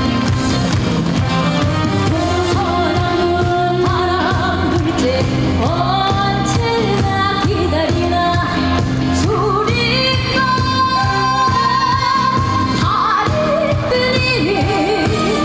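A woman singing a Korean folk-song (minyo) medley live in a gugak style, with wavering, ornamented held notes, over amplified backing music with a steady beat.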